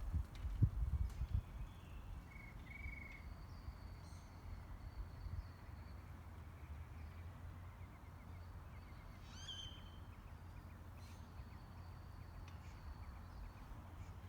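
Outdoor ambience: a steady low rumble with a few faint, short bird chirps, the clearest one a little past halfway.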